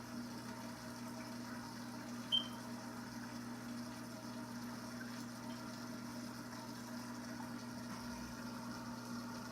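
Aquarium pump humming steadily over running water, with one short high-pitched blip about two seconds in.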